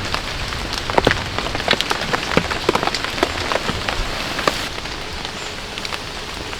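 Steady rain falling, an even hiss with many separate heavy drops landing close by; the drops thin out a little in the last couple of seconds.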